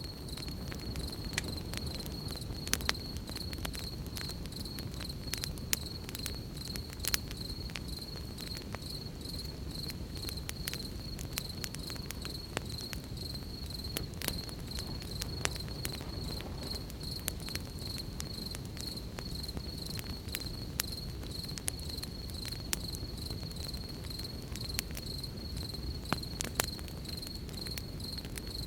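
Crickets trilling steadily on one high pitch, over a campfire crackling with scattered sharp pops and a steady low rumble underneath.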